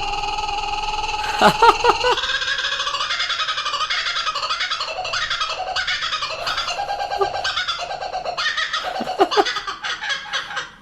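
Laughing kookaburra giving its laughing call: a long run of fast repeated notes that sound like laughter, with a few sharp rising notes about a second and a half in.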